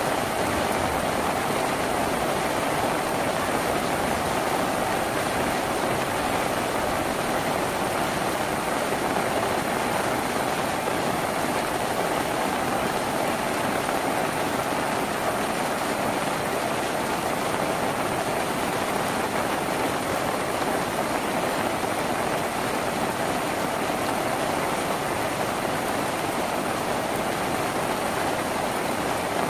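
Steady heavy rain drumming on a tin roof, an even unbroken patter.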